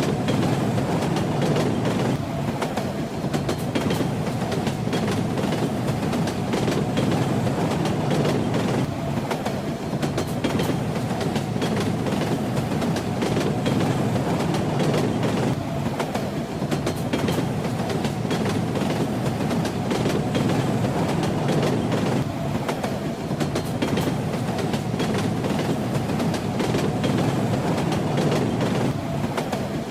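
Steady rumble of a train carriage in motion, with the wheels' clickety-clack over the rail joints.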